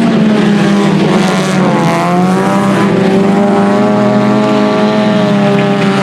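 IMCA Sport Compact race cars' four-cylinder engines running hard around a dirt oval. The pitch dips about two seconds in, then climbs steadily as the cars accelerate again.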